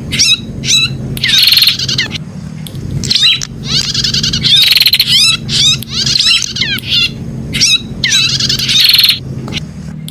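Prinia (prenjak) singing: rapid high chirps and sweeping notes alternating with buzzy trills in repeated phrases, over a steady low hum.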